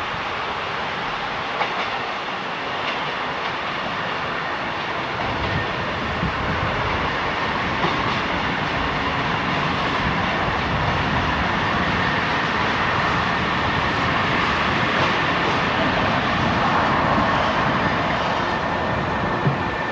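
Train running through on the rails, with continuous wheel and track noise that builds a little over the stretch and a few sharp knocks.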